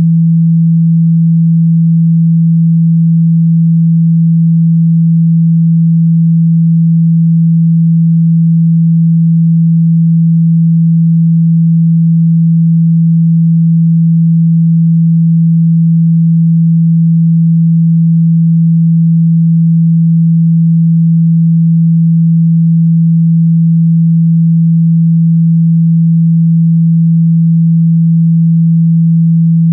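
A steady, loud 165 Hz sine-wave tone, held unchanged at one pitch: a low hum played to vibrate a phone speaker and shake out dust and water.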